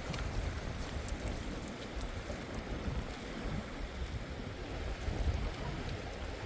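Strong wind buffeting the microphone in an uneven low rumble over a steady rushing hiss.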